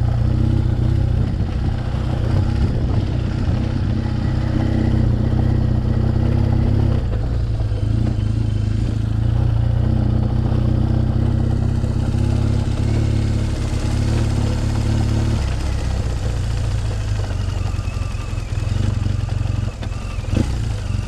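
BMW R 1200 GS boxer-twin engine with an SC Project exhaust, running at low, fairly steady revs, the note easing slightly about a third of the way in and again about three quarters through.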